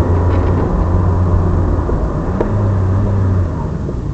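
Alpine A310's V6 engine running hard on the move, heard from inside the cabin with road noise. The engine note is steady, dips briefly about two seconds in, picks up again, then falls away near the end.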